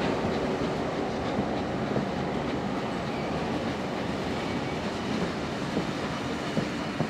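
Passenger train carriages rolling past on the rails: a steady rumble of wheels with scattered sharp clicks over rail joints, slowly fading as the train draws away.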